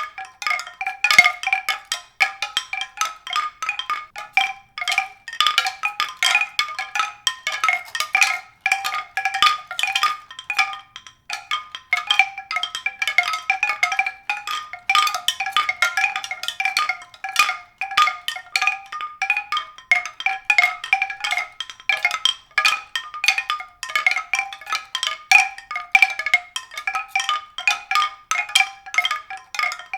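Mallet-percussion music: a continuous stream of short, bright struck notes, several a second, in a fairly high register.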